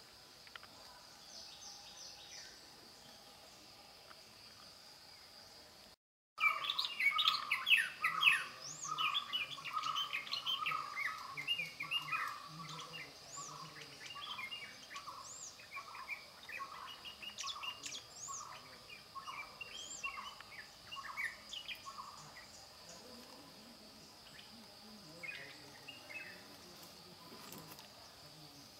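Small birds chirping and twittering, over a steady high-pitched hum. After a brief dropout about six seconds in, the chirping turns loud and busy, with one note repeated about every two-thirds of a second, then thins out again.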